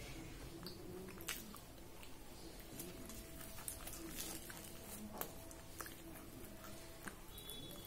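Faint close-up eating sounds of a person chewing fried puri: scattered soft mouth clicks and smacks.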